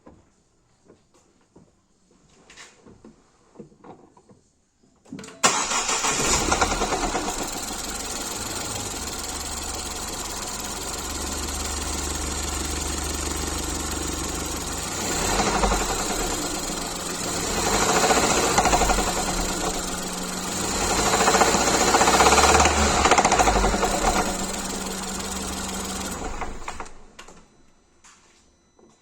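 Ford Fiesta ST Mk7.5's 1.6 EcoBoost four-cylinder engine starting about five seconds in, idling with several short revs, then switched off near the end, after a few faint clicks at the start. The owner is asking about a rattle that comes from this engine.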